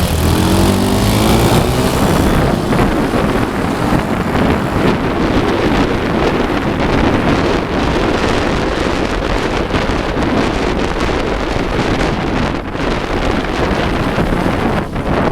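Motorcycle engine running, its pitch shifting over the first couple of seconds, then mostly buried under heavy wind rushing on the microphone.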